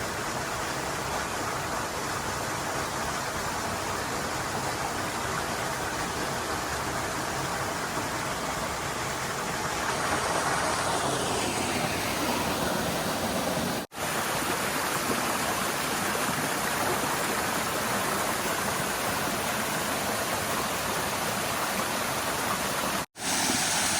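Steady rush of water cascading down a rocky mountain stream. It cuts out briefly twice.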